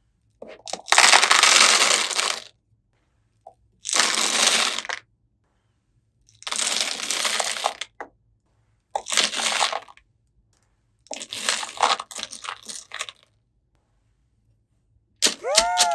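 Toy packaging being handled: five separate bursts of crinkling, crackling plastic, each a second or two long, with silent gaps between. Near the end a pitched cartoon-style sound effect that slides down in pitch begins.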